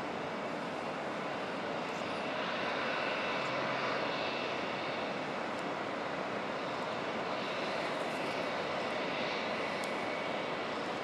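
Airliner engines running, a steady broad rush with a faint high whine, swelling slightly about three to four seconds in.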